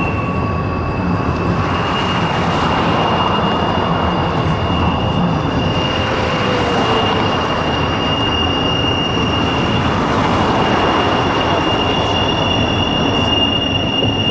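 A train rolling by with a steady rumble, over which a high-pitched wheel squeal holds one pitch throughout.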